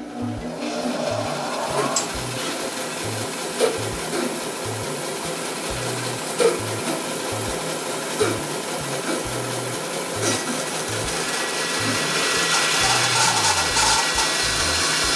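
Bandsaw with a half-inch, 3-teeth-per-inch resaw blade cutting through a cherry log, a steady rasping cut that starts suddenly and grows louder near the end.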